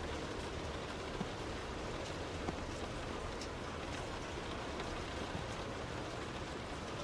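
Heavy rain on a moving car: a steady wash of rain and wet-road noise, with a few sharp drop hits about one and two and a half seconds in.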